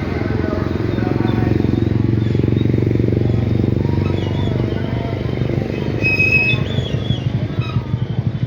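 A small engine running steadily, with a brief high squeak about six seconds in.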